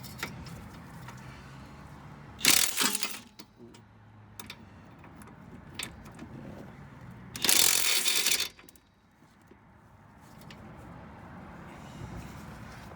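Ratchet wrench with a 17 mm socket clicking in two short bursts, about two and a half seconds in and again near the eighth second, as a suspension bolt is worked.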